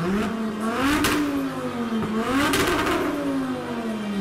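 Audi TT Clubsport concept's turbocharged five-cylinder engine being revved while the car stands still: two throttle blips, at the start and about two and a half seconds in. Each time the pitch rises quickly and then falls back slowly.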